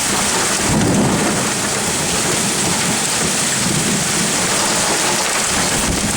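Heavy rain falling steadily in a thunderstorm, with a low rumble of thunder swelling about a second in and fading away over the next few seconds.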